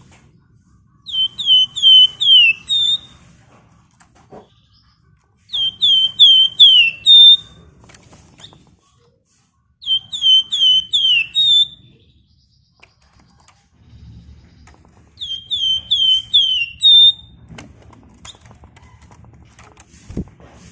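Spotted crocias (wergan Jawa, 'flamboyan') singing: four loud whistled phrases, each a quick run of about five downslurred notes ending on a brighter note, with pauses of a few seconds between them.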